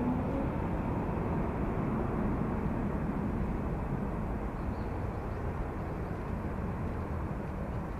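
Airbus A330-243 jet airliner's Rolls-Royce Trent 700 engines: a deep, steady rumble that slowly fades as the aircraft moves away.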